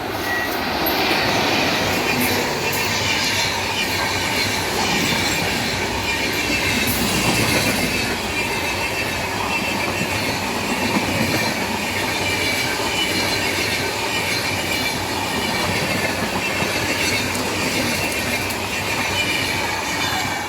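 Indian Railways express train passing at speed, a loud, steady rush of wheels on rails with a high squeal, starting abruptly and holding steady throughout.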